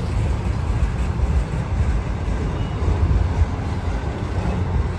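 Freight train's autorack cars rolling past close by: a steady low rumble of steel wheels on the rails.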